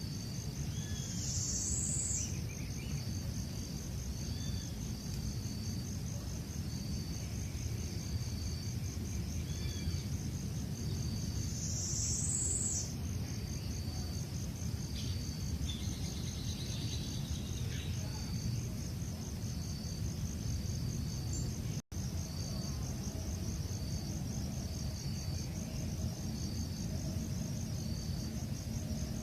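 Insects trilling steadily in a high, even pulse, with a second insect chirping in short notes repeated about twice a second beneath it, over a low steady rumble. Twice, about a second in and about twelve seconds in, a brief higher sweeping call rises over the trill.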